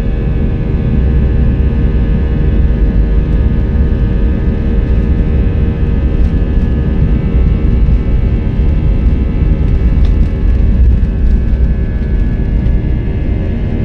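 Airbus A320-232 heard from inside the cabin, its IAE V2500 jet engines running steadily: a loud, deep rumble with several steady engine tones on top.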